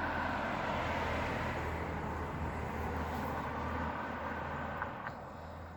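Road traffic: the noise of a passing vehicle, which fades away about five seconds in, with a short click just before it fades.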